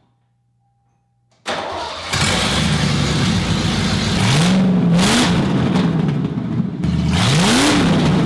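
Car engine running loud, revved twice with the pitch climbing each time. The sound comes in abruptly about a second and a half in.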